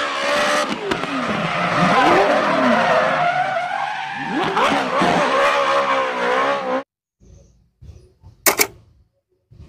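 Drift car's engine revving up and down with tyre squeal as it slides, cutting off suddenly about seven seconds in. After that, a few faint small knocks and one sharp click near the end.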